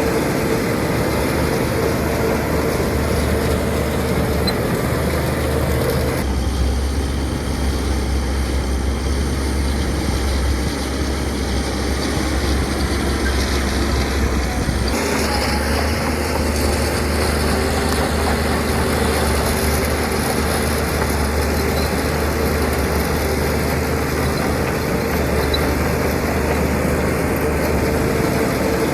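Heavy diesel earthmoving machinery running steadily, a deep engine hum. The tone changes abruptly about six seconds in and again about fifteen seconds in.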